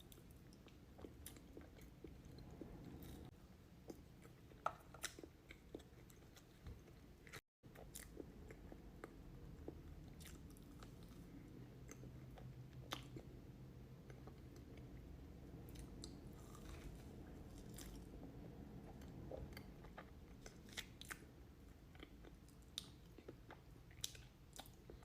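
Faint, close-miked chewing of a soft dessert cake, with scattered small mouth clicks and smacks.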